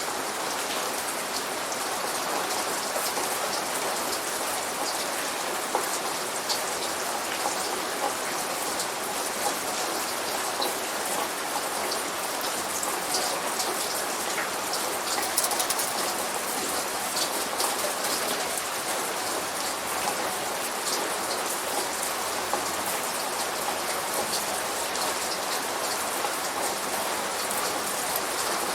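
Steady light rain: a dense, even patter of drops landing on a surface, with small individual drop ticks.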